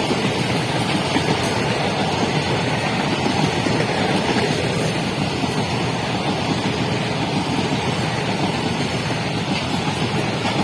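Passenger train of ICF coaches running at speed: a steady, unbroken rumble and rush of wheels on the rails, with no horn.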